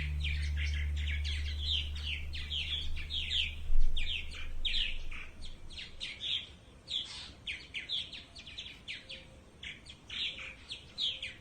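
Small birds chirping: many short, quick calls one after another. A low steady tone fades out over the first few seconds.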